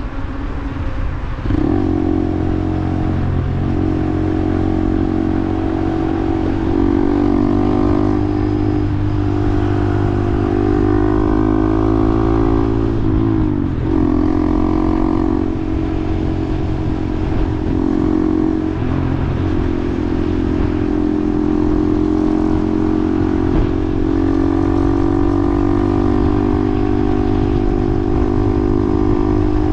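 Motorcycle engine accelerating hard through the gears, its pitch climbing and dropping at each shift about four times, then holding steady at cruising speed, with wind rushing over the microphone.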